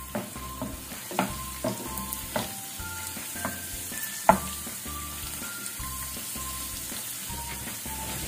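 Cashew nuts and raisins sizzling in hot ghee in a non-stick pan, stirred with a wooden spatula that knocks against the pan several times. The sharpest knock comes about four seconds in.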